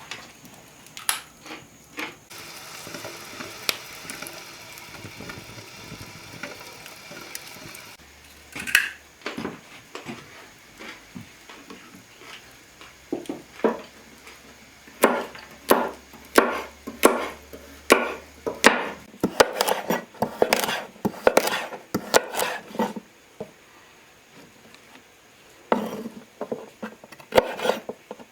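Knocks and clatter of wooden and metal cooking utensils and pots. About two seconds in there are several seconds of steady hiss, and later a run of quick, closely spaced strikes.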